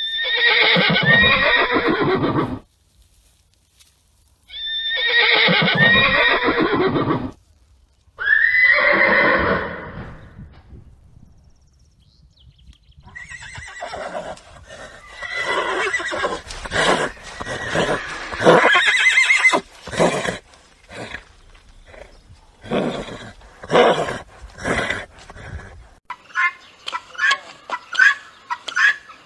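A horse whinnying three times, each neigh long and loud with a shaky, wavering pitch, followed by a stretch of irregular, rougher horse sounds. Near the end a different animal begins a rapid, evenly repeated call.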